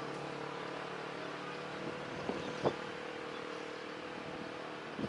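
Steady engine hum holding an even pitch, with two short sharp knocks a little past the middle.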